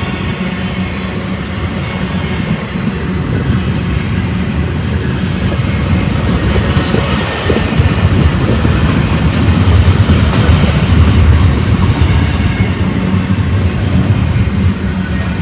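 Freight train passing close by, its wheels clacking over the rail joints with a heavy rumble that builds to its loudest about two-thirds of the way through.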